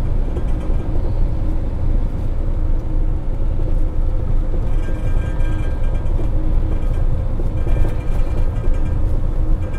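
Steady low drone of a semi truck's diesel engine and road noise from inside the cab while driving, with music playing over it.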